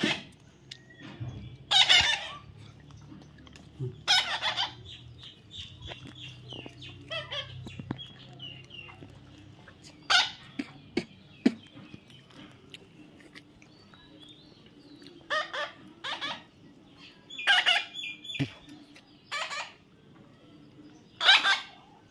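A parrot giving short, loud screeching calls, repeated every few seconds, some in quick pairs.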